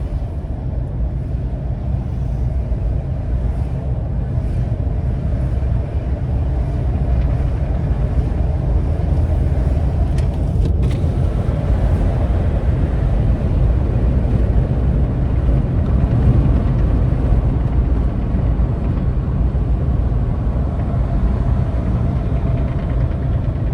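Car driving in slow traffic: a steady low rumble of engine and road noise, with a brief click about ten and a half seconds in.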